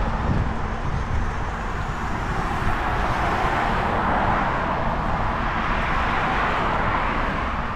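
Steady rushing wind and road noise from riding a bicycle, with a deep rumble that swells in the middle and eases near the end.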